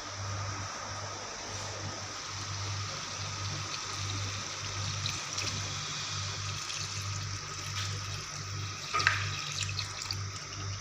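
Water running steadily from a kitchen tap into a sink, with a low pulse about twice a second beneath it and one sharp clatter about nine seconds in.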